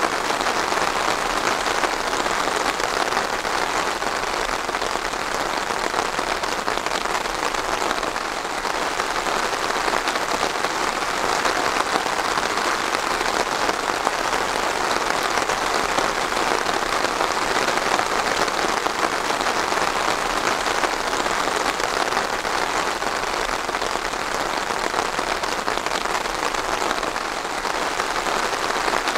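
Steady, heavy rain falling and pattering on surfaces, a dense even hiss of drops.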